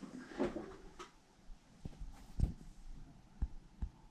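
Several dull knocks and thuds, spaced irregularly, the loudest about halfway through, with little else around them: impact noise coming through the ceiling from the flat above.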